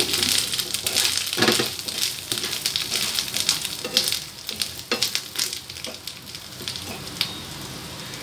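Taro roots sizzling in hot oil in a frying pan while a spatula stirs them, with scattered scrapes and knocks of the spatula on the pan. The sizzle grows quieter over the last couple of seconds.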